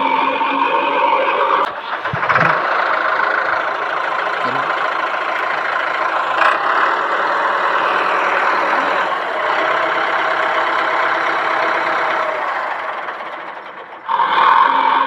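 An engine running steadily, with a short dip about two seconds in, then fading out near the end.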